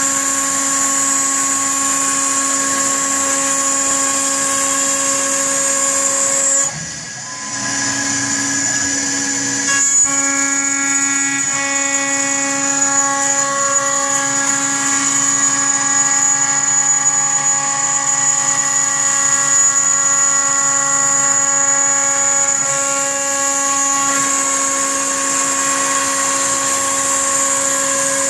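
CNC machine spindle running with a steady high whine and cutting noise. The sound dips briefly about seven seconds in, and its tone shifts about ten seconds in and again near the end.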